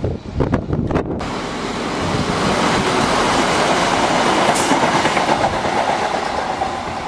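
TransPennine Express Class 185 diesel multiple unit passing close by, wheels clicking over the rail joints. The noise builds to a peak a few seconds in and then eases off. A few sharp knocks come in the first second.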